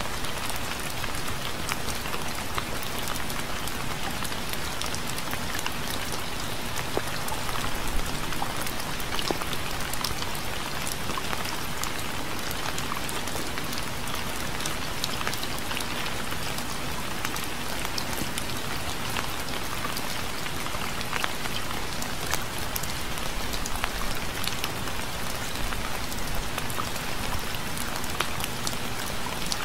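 Steady rain falling, an even wash of noise with many small drop ticks scattered through it and no thunder.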